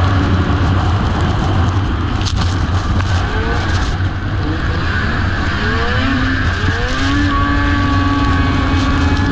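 Racing snowmobile engines revving hard, with several rising sweeps in pitch about midway that settle into a steady high drone near the end, over a constant low rumble.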